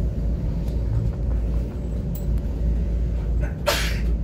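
Steady low rumble of a Taiwan Railway Tze-Chiang express train running, heard from inside the carriage. A short hiss comes near the end.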